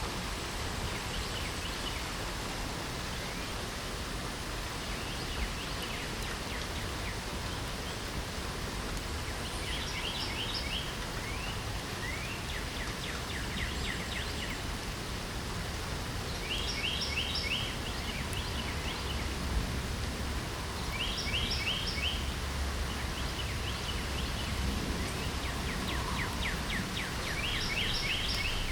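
Steady hiss of light rain, with a songbird singing a short phrase of quick repeated notes every few seconds from about ten seconds in.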